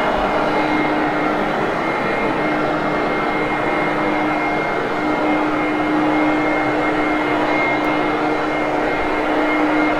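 Hoover Conquest vacuum cleaner running steadily on carpet, a constant motor hum with a thin high whine over it.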